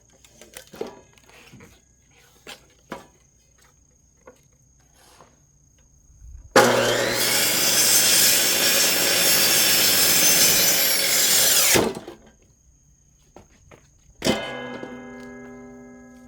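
Electric high-speed cut-off saw cutting through a firewood log for about five seconds, starting and stopping abruptly. Before the cut there are light knocks of wood being handled, and near the end a sharp knock followed by a fading ringing tone.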